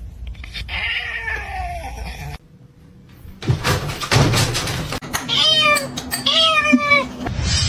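Domestic cat meowing: one long meow falling in pitch in the first couple of seconds, then, after a short pause, some knocking and rustling, and two more meows near the end.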